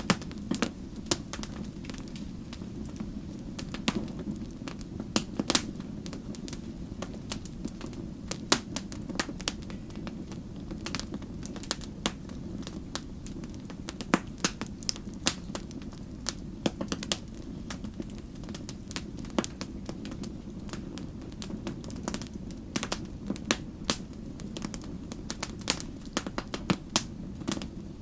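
Wood campfire crackling: sharp, irregular pops and snaps, sometimes several in quick succession, over a steady low rumble.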